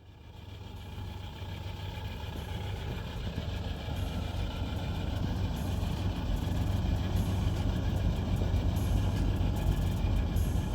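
The 1948 Studebaker M5 pickup's Champion 169 cubic inch flathead six running steadily, with a low, even hum that fades in over the first couple of seconds.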